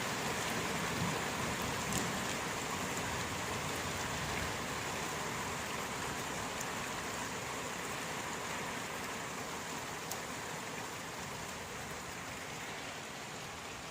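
Steady rain: a dense, even hiss of falling rain with an occasional single drop ticking out, slowly getting quieter.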